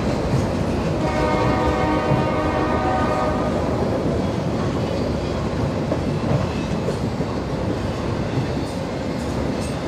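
Freight train running past at speed on the mainline, its air horn sounding a chord for about two and a half seconds from a second in, over the steady rumble and clatter of wheels on the rails.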